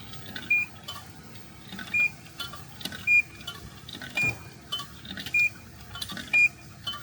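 Coin-operated car wash control box beeping, one short high beep about once a second, with sharp clicks of quarters being fed into the coin slot.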